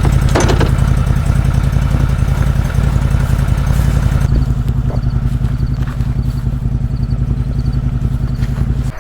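A vehicle engine running steadily, a loud low rumble with a fast even pulse.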